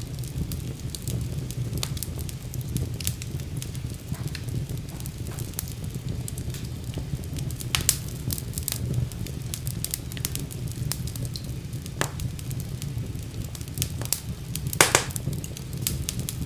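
Wood fire crackling in a fireplace: a steady low rumble of flames with frequent small pops, and a few sharper snaps about 8, 12 and 15 seconds in, the one near 15 seconds the loudest.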